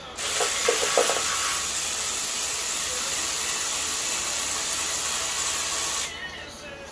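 A loud, steady jet of hissing pressurised air that starts suddenly and cuts off after about six seconds.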